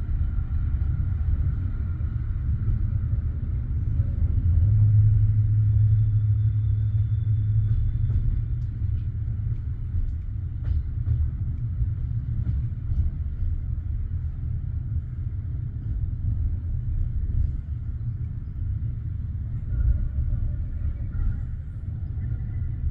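Steady low rumble of a passenger train heard from inside the carriage, with a stronger low hum swelling for about three seconds some five seconds in.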